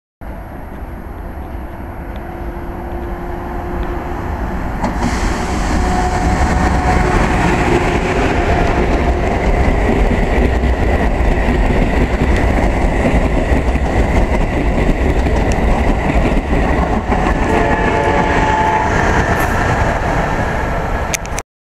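Amtrak Acela Express high-speed electric trainset approaching and passing through a station at speed. A rumble of wheels on rail builds over the first few seconds, holds steady and loud, and then cuts off suddenly near the end.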